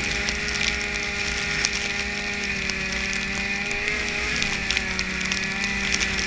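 Snowmobile running at a steady speed, its engine holding one pitch under a constant fast clattering rattle. The pitch dips briefly about four seconds in as the throttle eases, then comes back.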